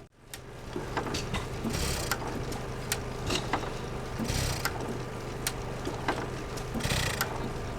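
Armstrong 6 hp cam-wobbler hit-and-miss engine being turned over without firing, with many small clicks over a steady hum and a hiss about every two and a half seconds. It is not drawing fuel, so it will not catch.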